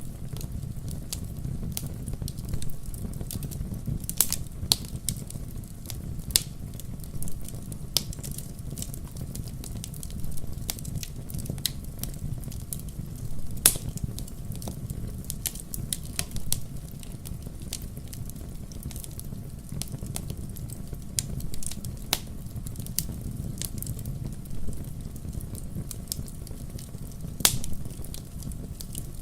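Wood fire burning in a fireplace: a steady low rumble of flames with frequent irregular crackles and pops, a few of them sharp and loud.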